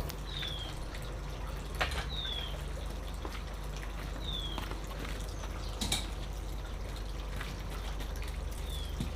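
Water dripping and trickling, with a few sharp drip ticks. A short high note that falls in pitch recurs about every two seconds over a low steady hum.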